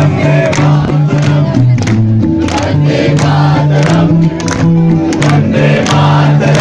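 Live band playing loud: a bass guitar line moving under regular drum hits, with voices singing and crowd noise.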